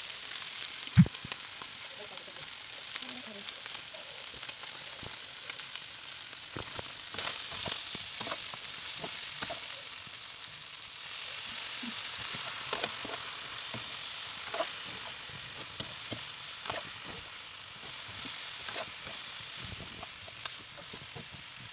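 Chicken pieces sizzling as they fry in a wok, stirred with a metal slotted skimmer that clicks and scrapes against the pan. There is one sharp knock about a second in, and the sizzle gets a little louder about halfway through.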